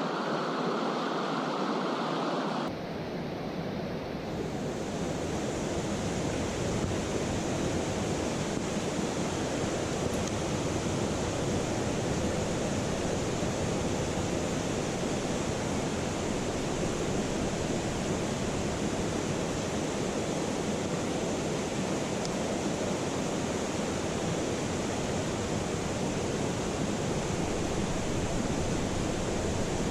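Steady rush of a mountain stream's flowing water, an even hiss with no distinct events; its tone changes abruptly about three seconds in.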